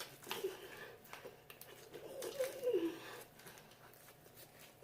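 Faint chewing and mouth sounds of someone eating fried chicken wings, with scattered small clicks. A short, muffled pitched sound that falls in pitch comes about two seconds in.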